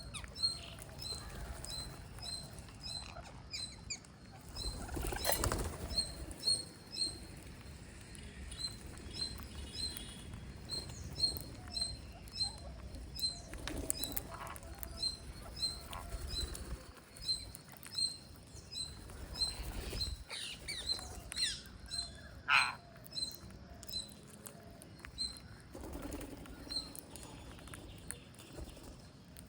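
Green parrots chirping: a steady stream of many short, high-pitched chirps, with a few louder, longer calls mixed in, one standing out about two thirds of the way through.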